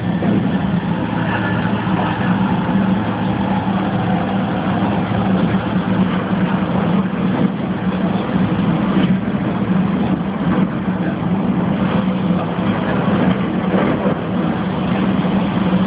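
A vehicle engine running steadily, a constant low hum under an even noise with no change in pace.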